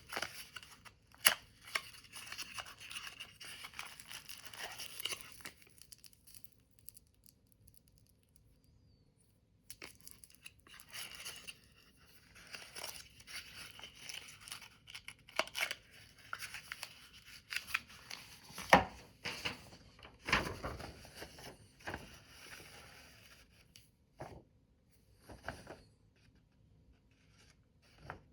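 Paper being handled, rustling and crinkling in two long spells with a quiet gap between, broken by a few sharp knocks, the loudest about a second in and past the middle.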